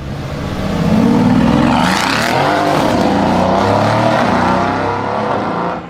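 Car with a loud exhaust accelerating hard, the engine note climbing and shifting in pitch as it pulls, then dropping off sharply near the end.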